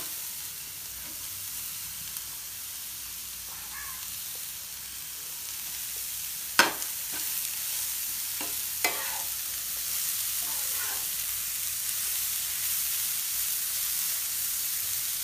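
Grated beetroot and onions sizzling in oil in a nonstick frying pan as they are stirred with a spatula. Sharp knocks come about six and a half and nine seconds in.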